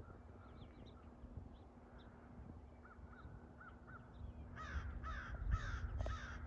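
Crow cawing four times in quick succession in the last two seconds. A few faint high chirps come earlier, over a low rumble.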